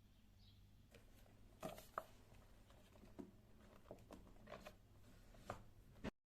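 Faint scattered clicks, taps and rustles of small objects being handled, over a low steady hum; the sound cuts off to dead silence near the end.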